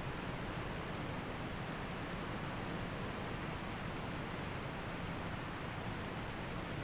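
Steady rushing water of a waterfall, an even unbroken noise with no changes.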